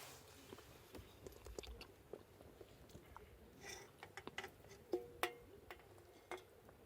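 Eating sounds: faint chewing with scattered small clicks and taps, a couple of sharper clicks about five seconds in.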